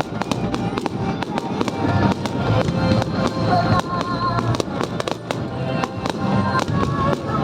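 Fireworks display: a dense run of bursts and crackles, many sharp reports close together without a break, with music playing alongside.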